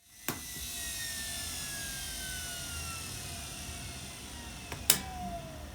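Washing machine electric motor whining as it slowly winds down, its pitch falling steadily. A click comes just after the start, and a sharp, loud click comes about five seconds in.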